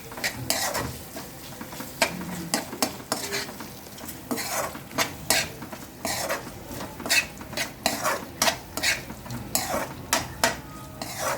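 A spoon stirring and scraping a thick chicken curry in a kadai, with repeated metal-on-metal scrapes and clinks over a light sizzle as the masala is mixed in.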